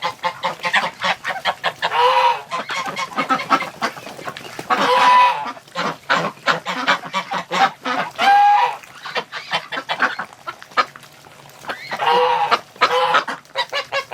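Domestic geese honking, a call every few seconds, over a flock of ducks giving short quacks and chattering.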